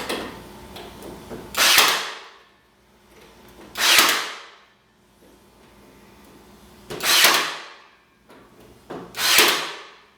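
Nail gun firing four times, a shot every two to three seconds, each a sharp crack trailing off in a short hiss as it drives 3/8-inch nails into pallet-wood boards.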